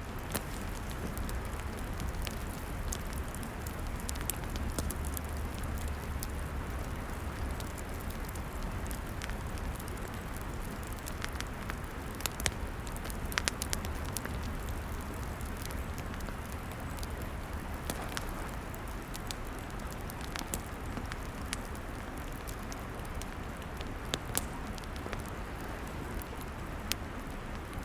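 Log campfire burning, with frequent sharp crackles and pops scattered through a steady hiss and a low rumble.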